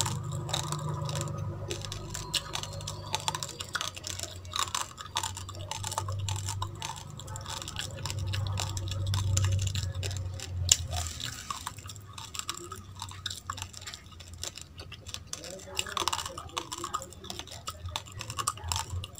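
Close-miked chewing of a mouthful of raw rice and raw baby carrot: irregular crisp crunches and mouth noises. A low hum sits underneath, stronger in the first half.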